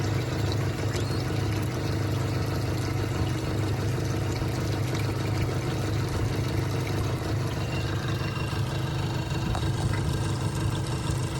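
Yamaha FR-20 boat's engine idling steadily at an even pitch.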